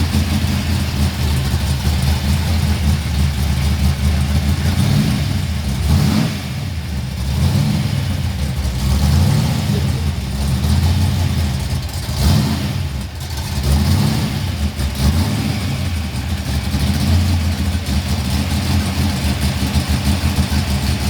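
Loud car engine idling with a deep, steady note, swelling briefly twice as the throttle is blipped.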